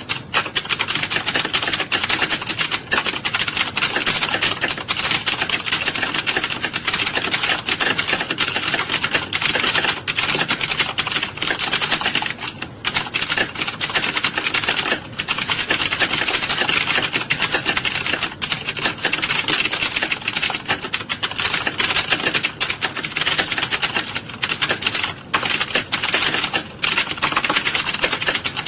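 Many computer keyboards typed on at once in a typing class: a dense, continuous clatter of key clicks with no pauses, apart from a few brief lulls.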